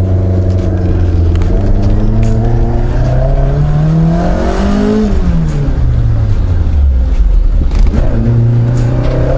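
Toyota AE86's engine heard from inside the cabin while driving. It runs steadily, then the revs climb over about two seconds from about three seconds in and fall away again. The revs pick up once more near the end.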